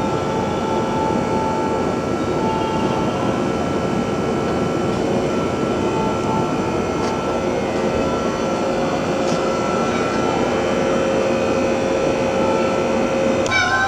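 Train running: a steady rumble with a few faint, steady tones above it.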